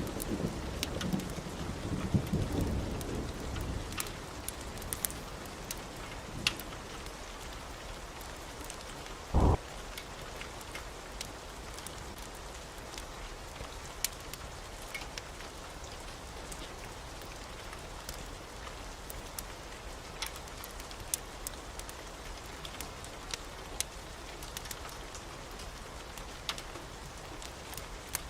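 Steady heavy rain with a rumble of thunder fading away over the first few seconds. Scattered sharp clicks sound throughout, and a short, loud low thump comes about nine seconds in.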